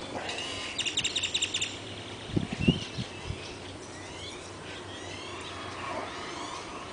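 Outdoor birdsong: several birds chirping, with a fast run of high repeated notes about a second in and scattered chirps after. A few short, dull thumps near the middle are the loudest sounds.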